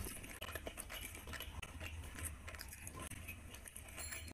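Close-up eating sounds: wet chewing and small mouth clicks and smacks while eating luchi with curry by hand, mixed with fingers squishing soft luchi into thick curry gravy.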